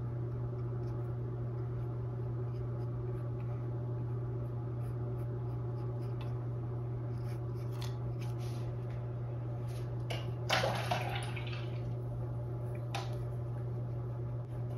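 Faint strokes of a paintbrush on stretched canvas, with a brief louder scratchy stroke about ten seconds in and another small one near the end, over a steady low hum.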